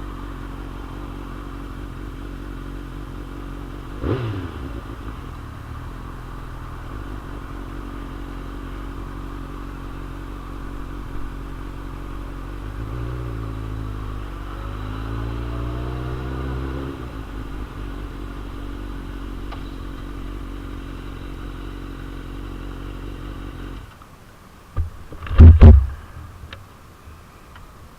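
2001 Suzuki GSX-R750 inline-four motorcycle engine running on the move under heavy wind noise, with a quick rise and fall in revs a few seconds in and revs climbing and dropping again midway. Near the end the engine and wind sound cut off suddenly, followed by a single loud thump.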